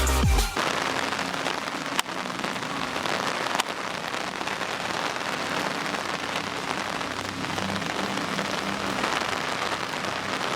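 Steady rain falling, an even hiss, with two sharp taps about two seconds in and a second and a half later.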